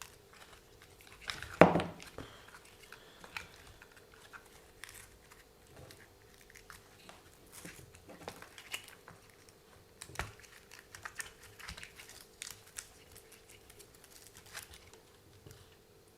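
Scattered light clicks, taps and rustles of small plastic parts being handled on a workbench, with one louder knock about a second and a half in. A faint steady hum runs underneath.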